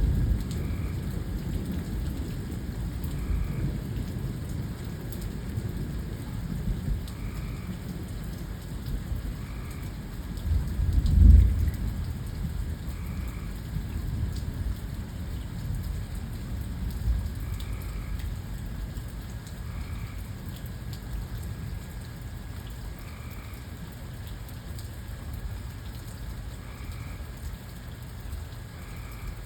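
Steady rain with low rolling thunder. The thunder swells loudest about eleven seconds in, then the rumble fades away, leaving mostly rain near the end.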